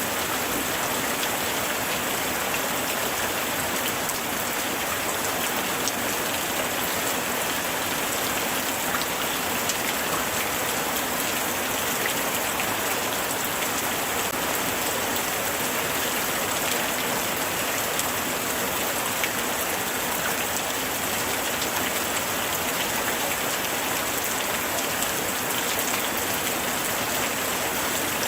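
Light rain falling steadily, a dense even hiss with many small drops ticking on surfaces.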